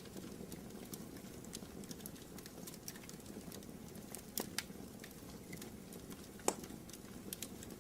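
Wood fire in a fireplace crackling over a steady low hiss, with scattered small clicks and a few sharper pops, the loudest about six and a half seconds in.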